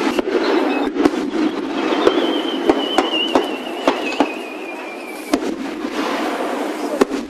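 Fireworks going off in rapid succession as a series of sharp cracks and bangs. A wavering whistle from a whistling shell slides slowly down in pitch from about two seconds in until about five seconds in.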